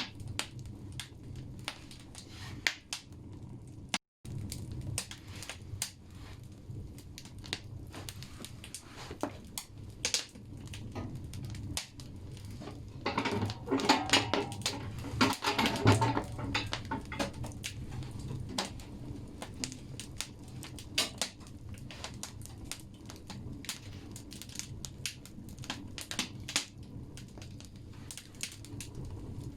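Firewood logs burning in a bathhouse stove, crackling and popping irregularly over a low steady rumble. The crackling grows denser and louder for a few seconds around the middle, and the sound cuts out for an instant about four seconds in.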